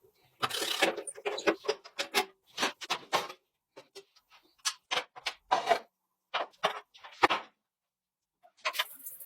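Hand work in a workshop: a run of irregular short clicks, taps and brief scrapes with pauses between them, going quiet for about a second near the end before picking up again.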